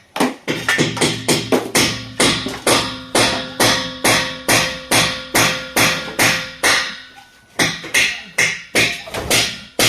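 Hammer driving nails with quick, steady blows, about three a second, with a ringing tone under the strikes; the blows pause briefly about seven seconds in, then start again.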